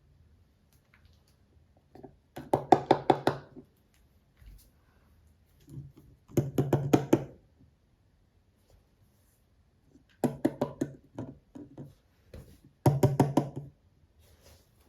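Rapid fingertip tapping and knocking on a small toy or its packaging, in four short bursts of several quick taps each, with quiet gaps between.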